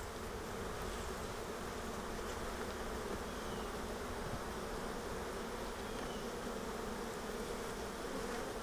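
Honeybees buzzing around an open hive as its frames are worked, a steady drone with no breaks.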